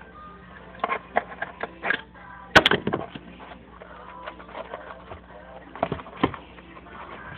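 Cardboard box being handled and cut by hand: a string of light knocks and scrapes, with a sharp knock about two and a half seconds in and two more a little after the six-second mark.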